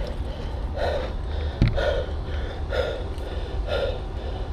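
A person breathing hard and fast, about one breath a second, over a steady low rumble of wind or handling noise on the microphone. One sharp knock comes about a second and a half in.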